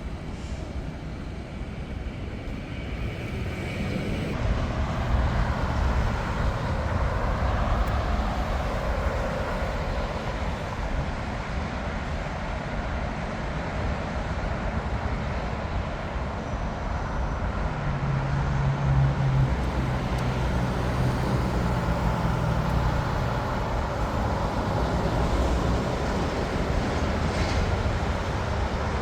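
Jet airliner engines rumbling, swelling louder about four seconds in and staying loud, with a low hum that strengthens past the middle.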